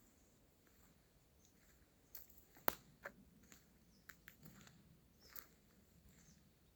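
Faint footsteps on the forest floor: scattered crackles and snaps of dry leaves and twigs underfoot, the sharpest snap a little under three seconds in.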